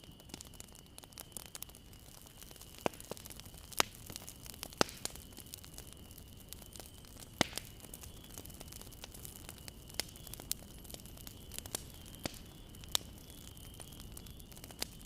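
Bonfire crackling: a steady low rumble of burning broken by frequent sharp pops and snaps of burning wood, a few of them loud. A faint steady high whine runs underneath.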